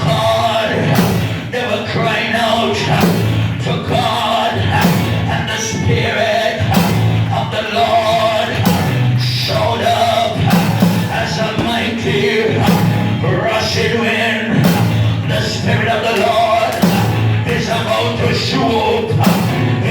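Gospel music with singing over a steady band beat.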